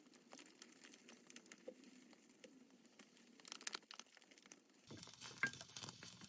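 Faint crinkling and scattered light clicks, as of something being handled, with a small cluster of sharper crackles a little past halfway.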